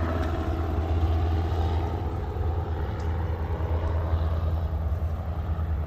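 Steady low rumble with no distinct calls or strikes.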